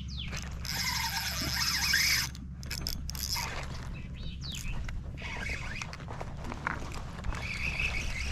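Fishing reel's drag buzzing in a rapid ratchet as line is pulled off, loudest in a burst about a second in, with shorter bursts later. A steady low rumble runs underneath.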